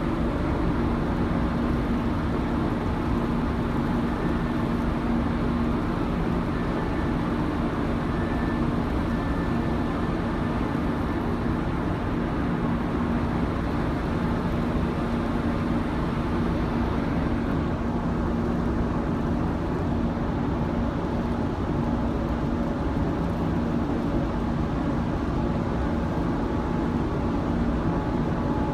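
Steady low machinery hum and rumble aboard a car ferry, with one constant low tone, from the ship's engines and ventilation.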